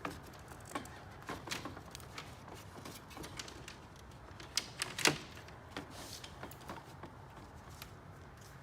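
Plastic clips of a 2010 Toyota Camry front grille clicking and snapping as the grille is pushed down and worked off the bumper, with scattered small knocks and one louder snap about five seconds in.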